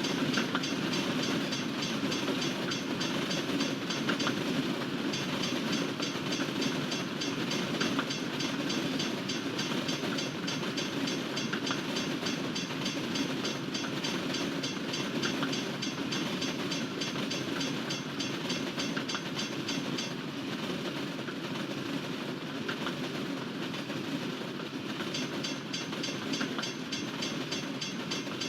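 Freight cars rolling past: a steady rumble of steel wheels on rail with a continuous run of clicks as the wheels cross rail joints.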